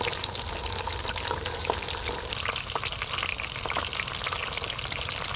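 Fish frying in hot oil in a pan: a steady sizzle with frequent small pops and crackles.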